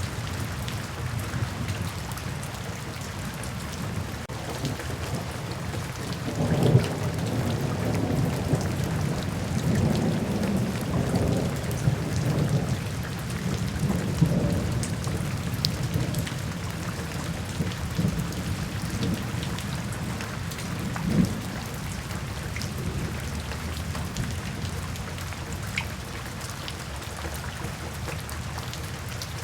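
Steady rain falling, with a long roll of thunder that swells about six seconds in and rumbles on for several seconds, and a shorter rumble about two-thirds of the way through.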